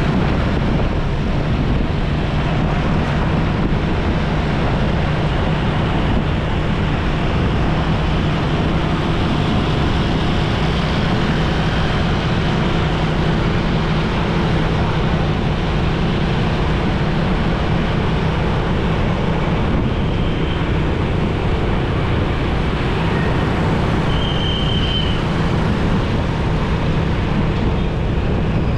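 Motorcycle engine running steadily under way, mixed with wind rushing over the microphone and surrounding road traffic. Two short high tones sound in the last third.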